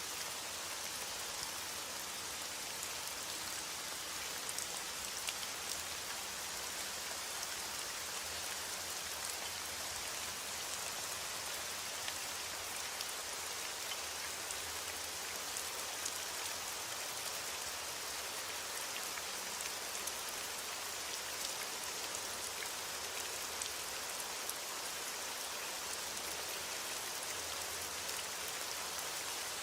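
Steady rain falling, with individual drops ticking on a surface. The hiss is even throughout, with no thunder.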